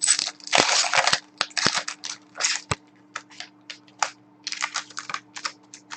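Trading cards and their packs being handled: a run of short, irregular rustles, crinkles and sharp snaps as packs are opened and cards shuffled and sorted.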